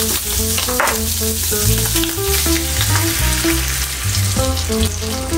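Ground meat frying and sizzling in a cast-iron skillet while beaten eggs are poured over it, under background music with a moving bass line.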